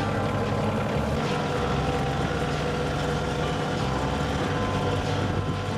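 Kioti compact tractor's diesel engine running steadily, its low note shifting a little a few times.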